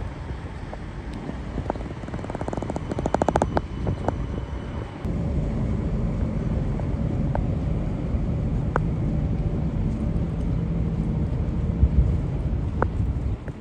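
Electric commuter train running: a steady low rumble, with a rapid rattling run about two to three seconds in. A steady low hum comes in about five seconds in, and a few single sharp clicks follow.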